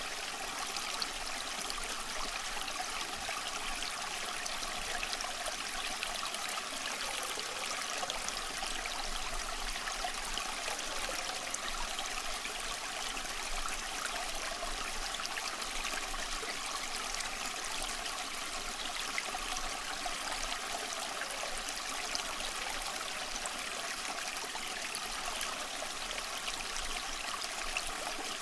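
Water running steadily, like a babbling stream, a constant bubbling rush with no breaks.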